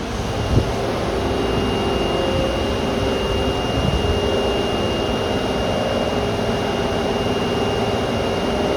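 Osaka Metro subway train in the station, making a steady mechanical hum with a thin, steady high whine that sets in about a second in; a single short knock comes just after the start.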